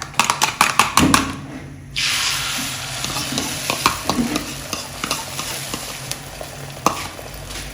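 Sharp clicks and taps, then about two seconds in, beaten egg poured into hot oil in a frying pan starts sizzling, and it sizzles steadily on with a few light knocks of a spoon or spatula in the pan.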